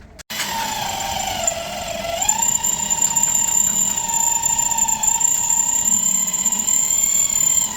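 Handheld electric power tool running at speed with a steady high whine. Its pitch sags briefly about a second and a half in as the tool is loaded against the work, then recovers.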